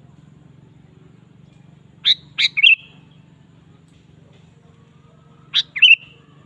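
Sooty-headed bulbul (kutilang) calling in two short bursts of loud, sharp whistled notes, each ending in a brief trill: one about two seconds in and one near the end. A faint low hum runs underneath.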